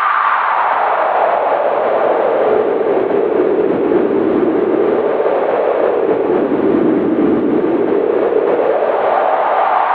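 Howling wind: a steady loud rush whose hollow pitch sinks slowly over several seconds and then rises again.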